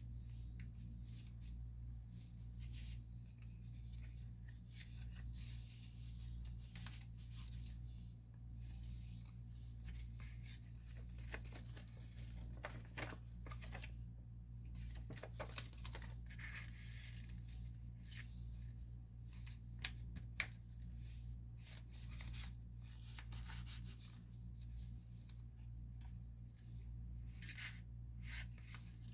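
Paper pages and card inserts of a handmade journal being handled and turned, soft rustles and a few sharper paper clicks, over a steady low hum.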